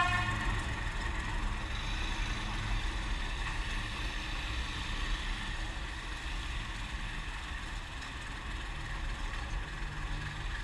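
ALCO RS-8 diesel locomotive engine running steadily with a low rumble.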